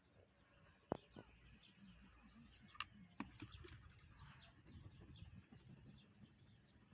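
Faint, repeated chirping of small birds, with a few sharp clicks about a second in and again around three seconds in.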